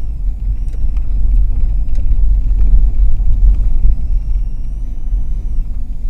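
Car driving, a loud steady low rumble of engine and road noise picked up by a dash camera inside the cabin.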